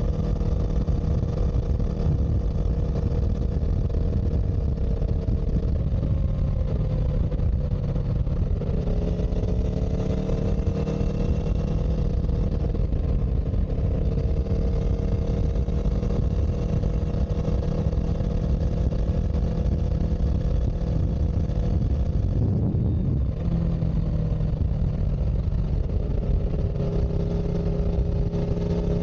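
Engine of a moving vehicle running steadily over a heavy low rumble. Its pitch drops and recovers twice, about seven seconds in and again about three-quarters through, like gear changes.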